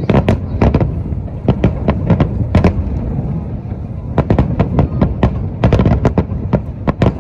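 Aerial fireworks bursting in quick succession: loud sharp cracks and booms over a continuous low rumble, easing for about a second near the middle before the bursts crowd back in.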